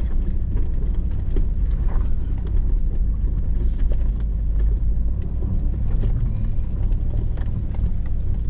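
Hummer H2's engine running steadily as it crawls up a rocky off-road trail, heard from inside the cab as a low rumble, with scattered small knocks and clicks over it.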